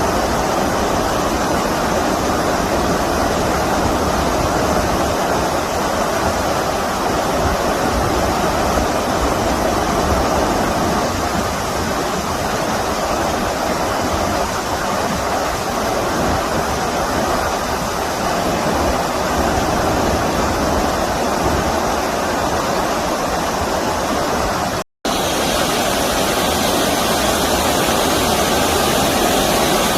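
Stream water rushing steadily, a loud even wash. A split-second dropout to silence breaks it once, about five seconds before the end.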